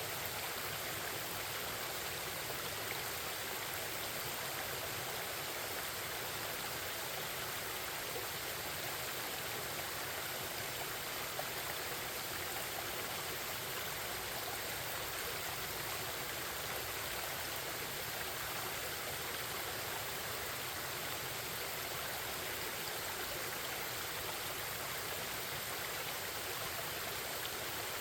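Forest stream, water babbling and running steadily.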